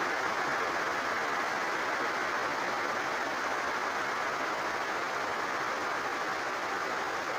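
Rain falling steadily: an even rushing noise that holds the same level throughout, with no breaks.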